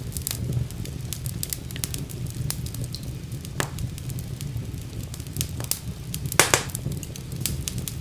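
Wood fire burning in a fireplace: a steady low rumble of flames with scattered sharp crackles and pops, a loud cluster of pops about six and a half seconds in.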